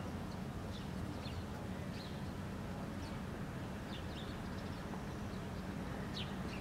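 Faint short high bird chirps, one every second or so, over a steady low rumble.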